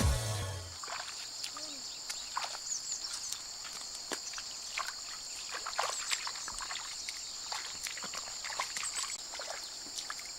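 Outdoor ambience: a steady, high-pitched insect chorus, with scattered small water splashes and clicks throughout.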